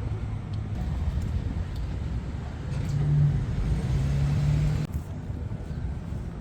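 Car on the move, with a steady low rumble of engine and road noise. About three seconds in it grows louder with a low drone, which cuts off abruptly about five seconds in.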